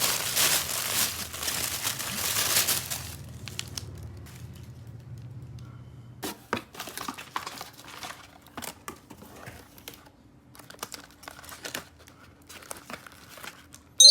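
Plastic toy packaging crinkling and tearing as it is unwrapped, loud for about the first three seconds, then dying down to quieter scattered clicks and taps.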